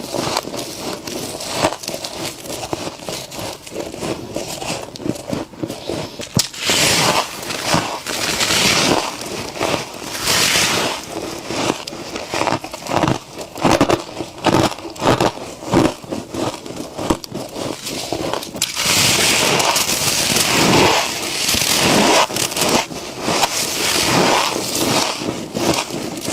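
Frost being crunched while eaten: a dense run of quick, crackling crunches, with louder, longer stretches of crunching a few times.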